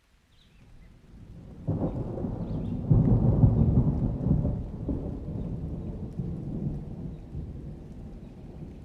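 A thunder roll: a low rumble builds from near silence, breaks loud almost two seconds in, is loudest about three to four seconds in, then slowly fades as a long low rumble.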